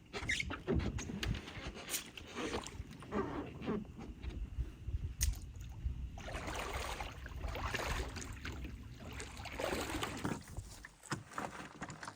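Paddling a carbon canoe: irregular paddle strokes and water splashing and sloshing around the hull, with a few sharp knocks.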